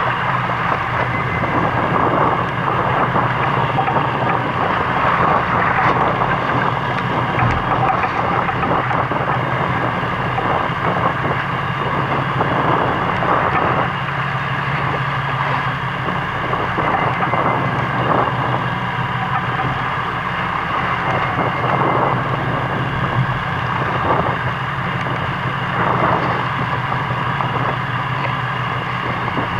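Fishing boat's engine running with a steady low hum, under constant wind and water noise.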